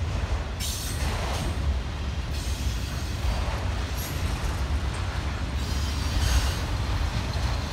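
Freight train of autorack cars rolling past at close range: a steady rumble of steel wheels on rail, with a higher hiss of wheel noise that swells every second or two as the cars go by.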